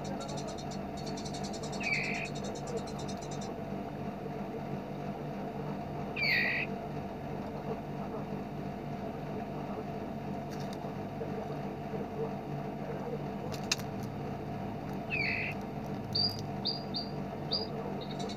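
Small songbirds calling, as in a bird-tutor recording: a fast, high buzzy trill in the first few seconds, then a few separate short chirps, and a quick run of high notes near the end, over a steady low background hum.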